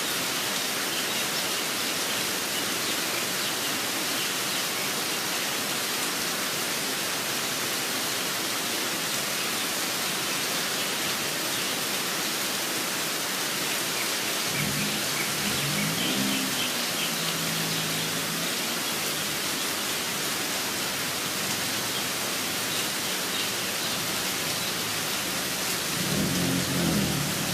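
Steady rainfall with faint bird chirps above it. A low pitched sound comes in twice, about halfway through and again near the end.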